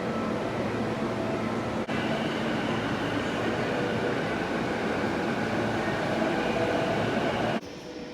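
Passenger train running: a steady rumble and rush with faint steady tones, which cuts briefly about two seconds in and drops abruptly in level near the end.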